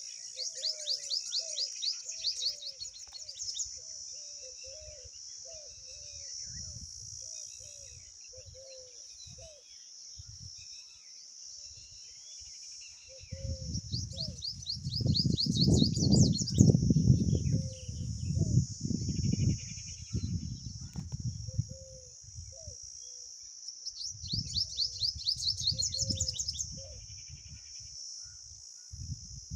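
Birds chirping outdoors, with three bursts of rapid high trills: at the start, about halfway through, and again near the end. Repeated lower chirps run through the first third. A steady high insect drone lies under it all, and a low rumbling noise comes in about halfway and again near the end.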